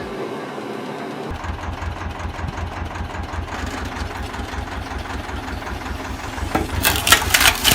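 An engine starts up about a second in and runs with a steady, rapid low beat. Near the end, loud harsh rasping strokes come in over it, like something being cut.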